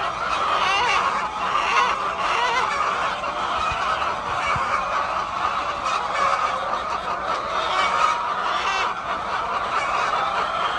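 A large flock of chickens calling all at once, many short calls overlapping into a steady din.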